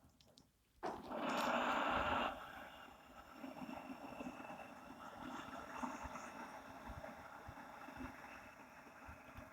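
A person's audible breathing during a qigong breathing exercise: a loud rush of air lasting about a second and a half, then a long, quieter drawn-out breath.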